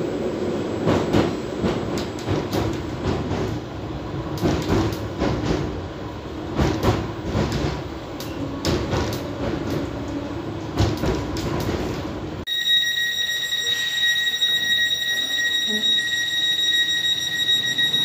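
Island Line Class 484 train (converted London Underground D stock) running, heard inside the carriage: a steady motor hum with irregular rattles and clicks from the wheels on the track. About two-thirds of the way through it cuts to a quieter platform scene with a steady high tone beside the stopped train.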